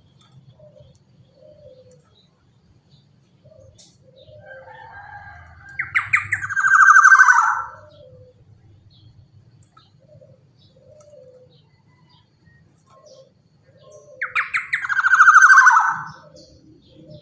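Black-naped oriole (kepodang) giving two long, harsh, falling calls about eight seconds apart, with faint short calls between them.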